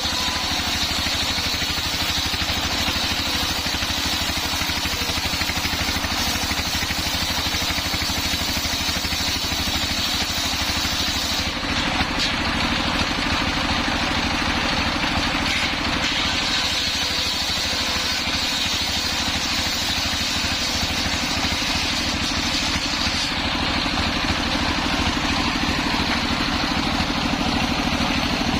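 Homemade engine-driven circular saw running steadily, its blade cutting through a hard coconut-wood log, with a steady high whine over the engine's hum.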